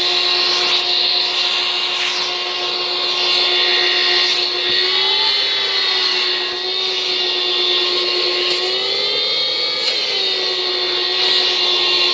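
Shop vac motor running with a steady whine, used to vacuum-test a rebuilt cylinder head's exhaust valves for leaks. Its pitch lifts a little about five seconds in and rises more clearly about nine seconds in before dropping back; a pitch pick-up when a port is sealed is the sign that the valves are not leaking.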